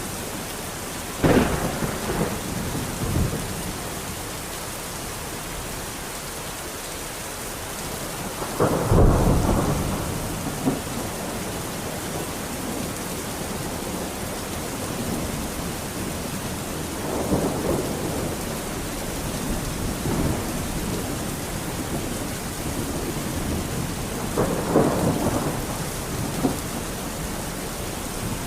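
Steady heavy rain with thunder: a sharp thunderclap about a second in, a loud rumbling peal around nine seconds in, and softer rumbles later on.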